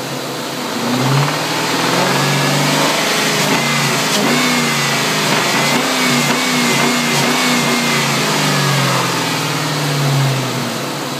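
1999 Ford Mustang GT's 4.6-litre V8 revved up from idle, held at raised revs for a few seconds with the pitch wavering, then let back down to idle, to show a noise the owner takes for engine knock.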